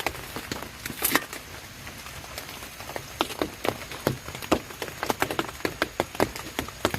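Rain falling, with big drops tapping irregularly and sharply on a surface over a steady hiss; the taps come thickest in the middle of the stretch.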